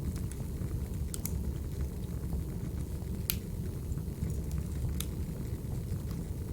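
Crackling wood fire: a steady low rumble of burning, with a few sharp pops about a second in, at about three seconds and at five seconds.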